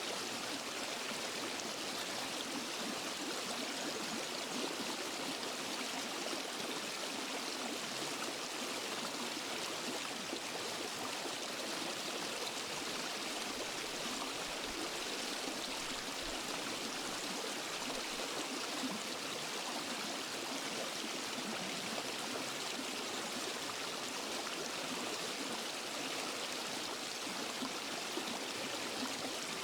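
Running water of a forest stream and waterfall: a steady, even rush without deep rumble, never rising or falling.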